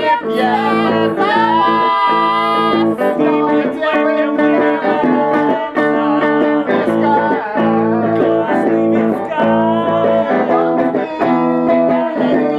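Blues played on guitar: steady strummed chords, with a melody line above them that bends and slides in pitch.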